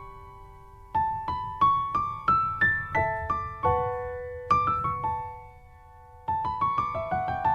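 Background piano music: single notes struck and left to ring, climbing in a short run about a second in, with brief pauses before a new phrase near the end.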